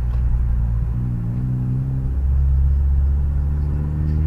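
Ford Focus ST's engine running steadily with road rumble as the car drives along; its pitch steps slightly higher about two seconds in.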